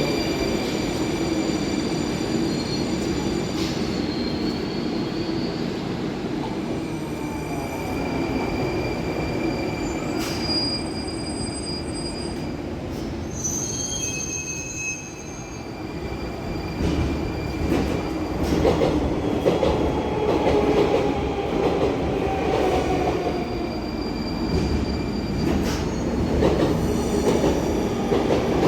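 Moscow Metro train running through the station and braking, with high steady squeals from wheels and brakes over the rumble of the cars. About halfway through the rumble grows louder and a slowly falling tone comes in as the train slows.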